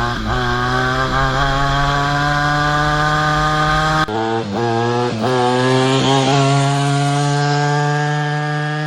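50cc two-stroke engine on a small scooter running at high revs, a high buzzing note. The revs dip and pick up briefly near the start and a few times about four to six seconds in, then hold steady and sag slightly near the end.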